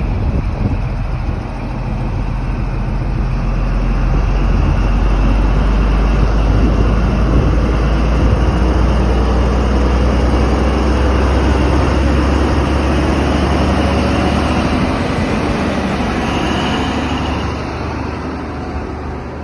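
The Midland Pullman, an HST set with a diesel power car at each end, pulls away. Its diesel engines run under load with a deep, steady drone and the rumble of the train, growing louder and then fading in the last few seconds as it moves off.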